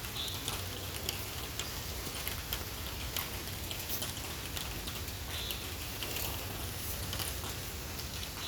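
Rain falling steadily, with irregular sharp taps of raindrops striking close to the microphone.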